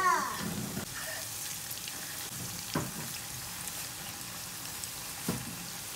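Vegetable bora (fritters of greens and onion) deep-frying in hot oil in a pot, a steady sizzle, with a wooden spoon turning them and two light knocks about three and five seconds in.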